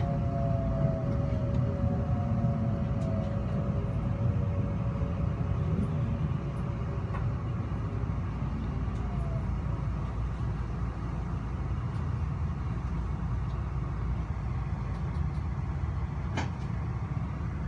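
Electric passenger train heard from inside the carriage as it slows into a station: a steady low rumble of wheels and running gear, with a motor whine gliding down in pitch over the first few seconds. A couple of sharp clicks near the end.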